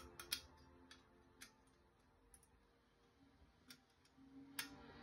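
A few faint, sharp clicks of stainless-steel parts as a folding campfire grill stand is handled and folded, spaced irregularly with near silence between them.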